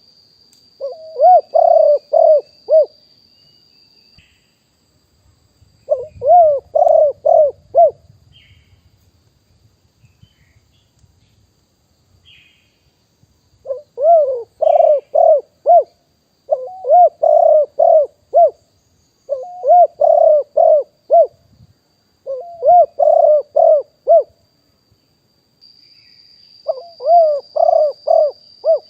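Spotted dove cooing: seven phrases of a few rhythmic coos each, broken by pauses of a second or more. A faint, steady high insect buzz runs behind the calls.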